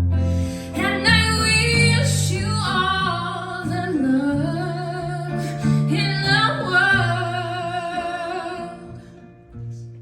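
A woman singing a slow, held, wavering vocal line over acoustic guitar accompaniment. The phrase fades out near the end.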